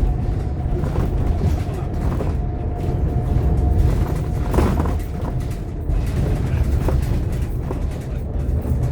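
Inside a Scania K230UB OmniLink bus on the move: the engine's steady low drone, with a thin steady whine and scattered rattles and knocks from the body and fittings.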